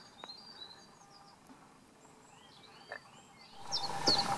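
Small songbirds chirping and singing, faint at first with a couple of small clicks. Near the end the sound jumps louder, with clearer repeated high bird calls over a steady hiss.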